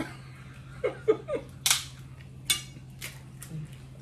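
Crab shells cracking as they are broken open by hand: three sharp cracks, the loudest about a second and a half in, with a short vocal sound just before them.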